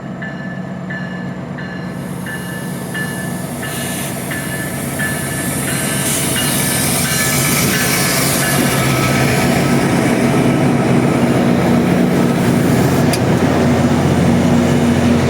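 MP40 diesel locomotive standing at a platform, its engine running with a steady low hum that slowly grows louder. For the first several seconds a light ringing ding repeats about every 0.7 s, then fades out.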